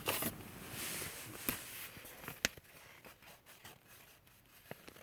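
Notebook being handled and written in: rustling and scratching for the first two seconds or so, then fainter, with a few sharp clicks.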